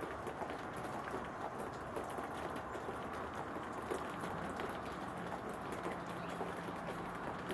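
Steady rain falling, a continuous hiss with many small drops pattering.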